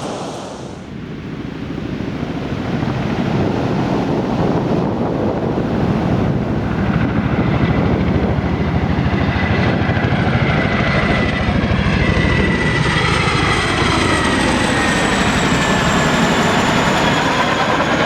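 Aircraft engine passing overhead: the drone builds over the first couple of seconds and holds loud, and its whine falls steadily in pitch through the second half as the aircraft goes by.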